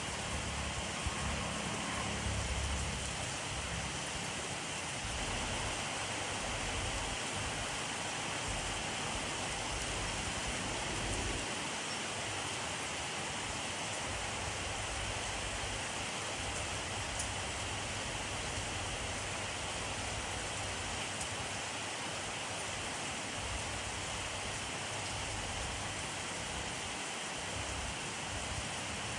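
Steady rainfall, an even hiss of many drops hitting surfaces, with a soft low rumble coming and going underneath.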